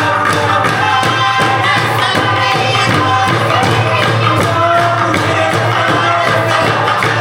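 A group singing a song in several voices over a steady percussion beat, music for a line dance.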